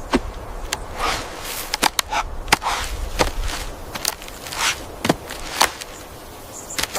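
A series of irregular sharp snaps and clicks, about a dozen, with rustling between them.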